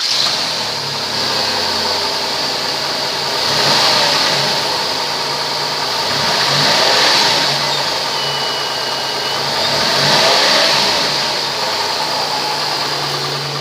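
2005 Chrysler Town and Country minivan's engine running after a start, idling and revved three times, each rev rising and settling back to idle.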